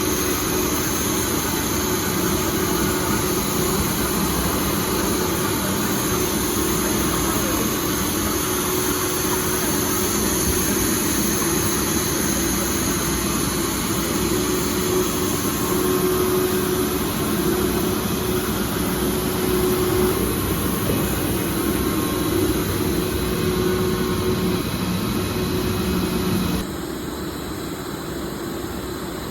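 PVC rain-gutter extrusion line running: a steady machine drone with a hum and an on-and-off whine. It becomes quieter and thinner near the end.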